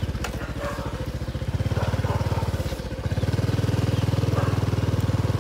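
Small motorcycle engine running steadily, a low, evenly pulsing drone that gets louder about three seconds in.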